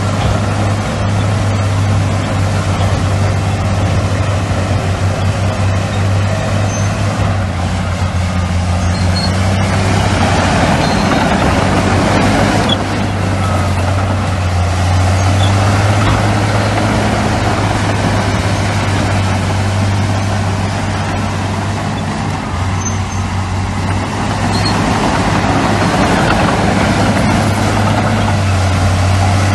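Heavy diesel earthmoving machinery, bulldozer and dump truck engines, running in a steady low drone that grows louder and rougher for a few seconds twice as the machines work under load.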